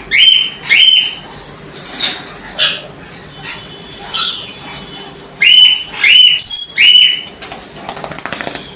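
Parrots squawking: a series of loud, harsh screeches, each rising quickly and then held at a high pitch. Two come near the start, a few weaker calls follow, and three more come in quick succession past the middle.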